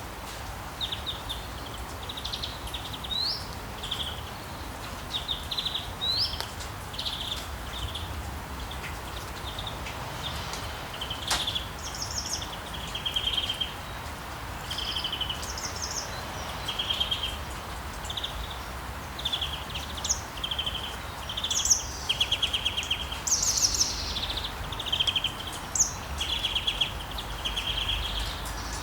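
Songbirds chirping in many short, quick trills, one phrase after another, over a steady hiss of rain.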